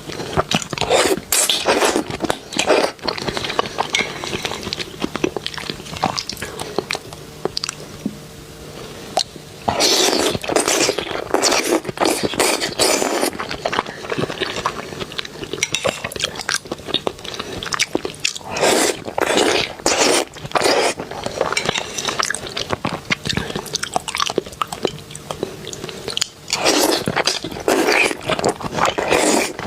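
Close-miked biting and chewing of seafood, with wet crunching and clicking in repeated bursts and a quieter stretch about a quarter of the way through.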